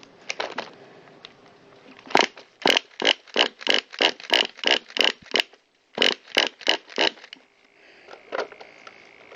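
Pull starter of a petrol RC buggy engine being worked, giving two runs of rhythmic mechanical clacks about three a second. The engine is not catching.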